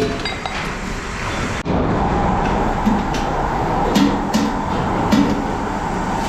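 Kettle-factory workshop noise: sharp metal taps, then after an abrupt cut about a second and a half in, a steady machine drone with a held tone and scattered knocks.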